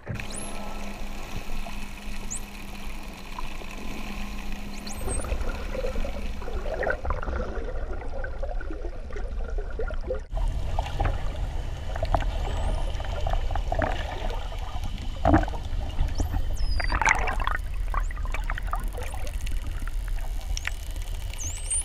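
Dolphins whistling and clicking underwater over a constant wash of bubbling, sloshing water. Several high whistles glide up and down, with scattered clicks between them. A low steady hum runs through the first five seconds.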